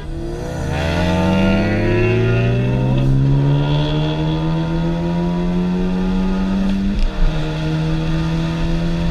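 Car engine heard from inside the cabin while driving, its pitch climbing steadily for about seven seconds as the car accelerates, then dipping briefly and holding steady.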